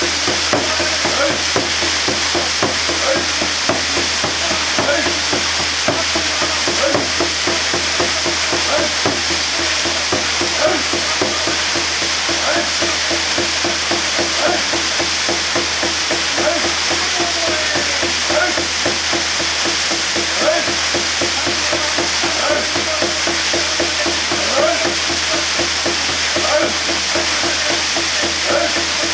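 Waterfall pouring steadily onto rocks and water, a continuous even rush of splashing water.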